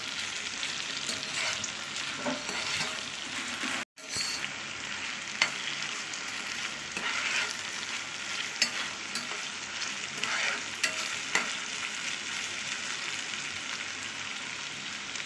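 Chopped onions, tomatoes and green chillies sizzling in hot oil in a kadai as they are stirred and sautéed, with scattered clicks of the spatula against the pan. The sound breaks off for a split second about four seconds in.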